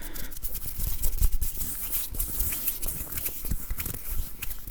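ASMR hand sounds: fingers and palms rubbing and tapping right at the microphone, a dense run of crackly clicks and rustles with soft low thumps.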